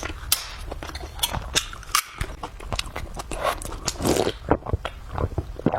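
A person eating close to the microphone: chewing with many short, sharp clicks and crunches, and a brief louder stretch of wet mouth noise around three to four seconds in.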